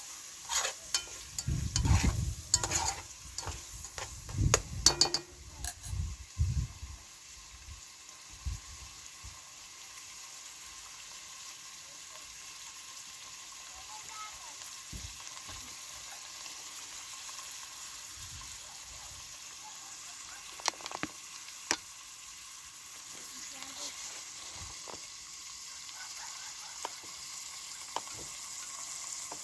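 Food frying and sizzling in a pan, with knocks and scraping from stirring over the first several seconds, then a steady sizzle broken by a few sharp clicks.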